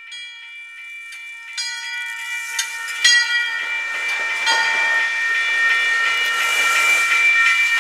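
MBTA commuter rail coaches rolling past close by through a grade crossing: sharp wheel clicks over the crossing, then a growing hiss as the cars go by, over a steady high-pitched ringing squeal.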